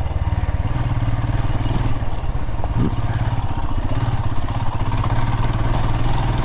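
Royal Enfield Himalayan's single-cylinder engine running at low revs in a low gear over rough, rocky track, with a short rise in pitch about three seconds in.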